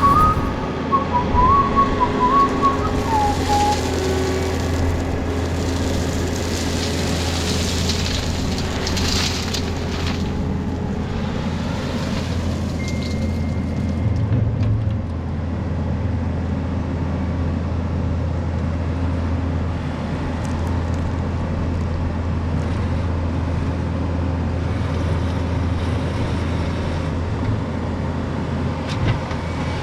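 Skid steer's engine running steadily at a constant speed, a low even drone. A whistled tune fades out in the first few seconds.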